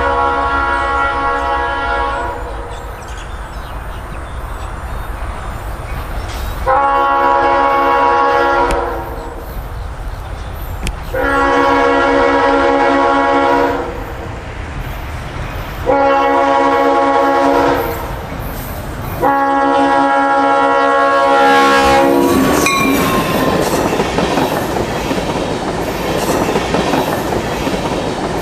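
Air horn of an EMD GP38-2 diesel locomotive sounding a multi-note chord in blasts: the end of one blast, then long, long, short, long, the grade-crossing signal. Then the locomotive and its string of tank cars pass close by with loud wheel clatter over the rail joints.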